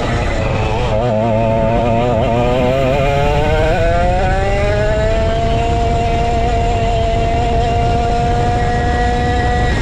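Vintage go-kart's 135cc Sudam engine running under load: its pitch wavers up and down for the first few seconds, then climbs about four seconds in and holds steady at high revs until near the end, over a constant low rumble.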